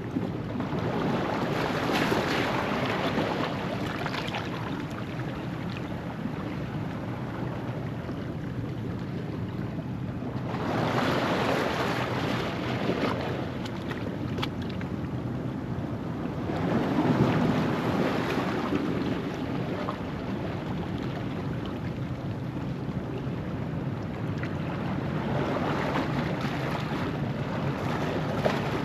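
Ocean waves washing over a rocky shoreline at low tide, a louder surge rolling in and draining back about every six to eight seconds, four times, over a steady wash of surf.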